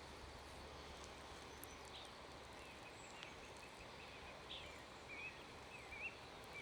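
Near silence, with faint, brief bird chirps and twittering now and then.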